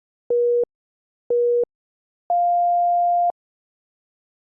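Workout interval timer counting down: two short beeps about a second apart, then one longer, higher-pitched beep that marks the end of the interval.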